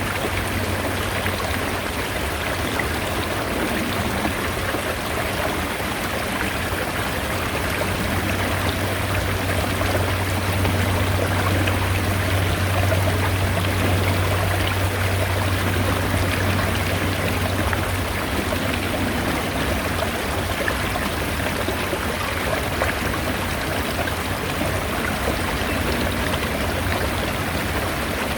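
Mountain stream flowing steadily. A low, steady rumble sits underneath it from a few seconds in until about two-thirds of the way through.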